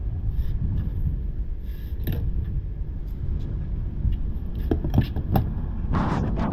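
Toyota Corolla driving, heard from inside the cabin: a steady low road and engine rumble with a few sharp clicks and knocks about two seconds in and again near the end.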